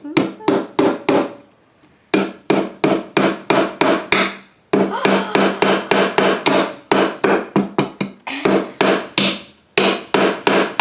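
A hammer driving nails into a cedar fence-picket birdhouse: quick, loud strikes about three or four a second, in runs broken by short pauses.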